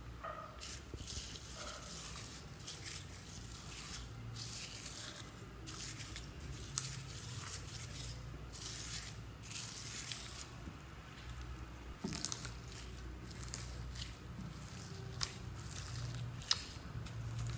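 Slime being squished, stretched and folded by hand, giving repeated wet crackling and squelching, with a few sharp pops as air pockets burst.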